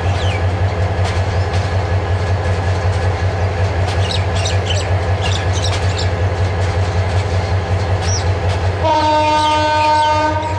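Diesel passenger train running past, a steady low rumble with fast, even wheel pulsing. Near the end the train's horn sounds one long, steady blast.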